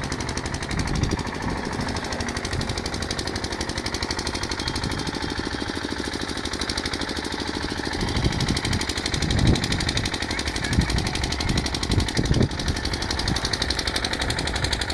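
Welding equipment in use: a steady, rapid mechanical chatter, with a few louder low thumps from about eight seconds in.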